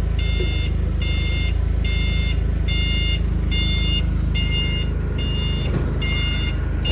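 A vehicle's back-up alarm beeping steadily, a bit more than once a second, over a steady low engine rumble.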